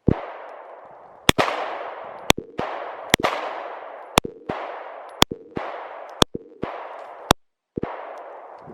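A 9mm pistol, a Sarsilmaz SAR9, fired at a steady pace of about one shot a second, seven shots in all. Each shot has a long echoing tail, and fainter knocks come between some of them.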